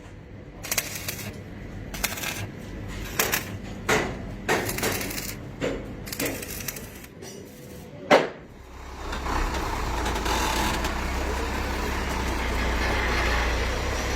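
A string of irregular knocks and clanks, the loudest a sharp bang near eight seconds. From about nine seconds a truck engine runs with a steady low drone.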